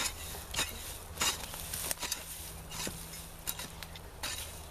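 Digging in soil by hand: a series of irregular short scrapes and crunches, about six, with a faint steady low hum underneath.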